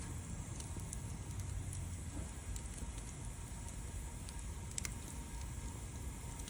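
Wood bonfire burning, with scattered sharp crackles and pops over a steady low rumble; the loudest pop comes near the end.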